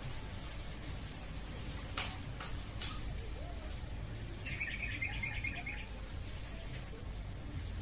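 A small bird chirping a quick trill of rapid repeated notes, about a second and a half long, past the middle. About two seconds before it come three sharp clicks in quick succession, the loudest sounds, over a steady hiss and low hum.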